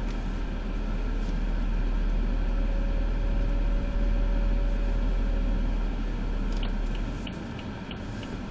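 BMW F30 320i's N20 2.0-litre turbocharged petrol engine pulling, a deep rumble with a faint thin whine over it in the middle, easing off about seven seconds in. Light regular ticks, about three a second, start near the end.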